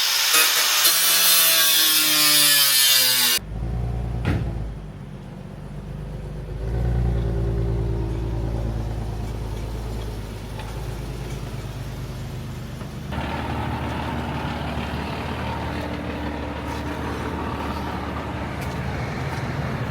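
A car running and driving, in several cut-together clips. First a loud rushing pass with a falling sweep, then a steady low engine hum with road noise.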